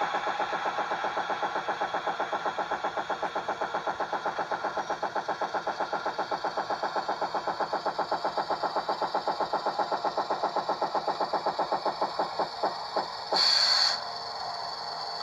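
Sound decoder in a model Budd RDC rail diesel car playing its diesel engine sound: a fast, even chugging that slows, breaks up and stops about 13 seconds in, like an engine shutting down. A short hiss follows just after.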